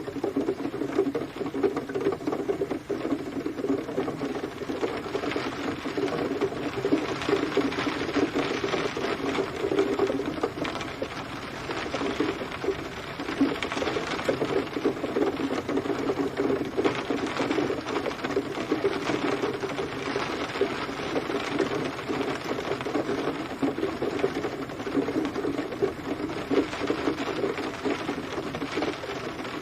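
Steady rain pattering: a dense, even mass of small drop impacts with no let-up.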